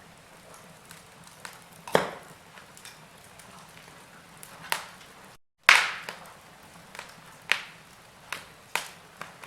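Wood fire crackling as logs burn: irregular sharp pops and snaps over a faint hiss. Near the middle the sound drops out for a moment, then comes the loudest pop.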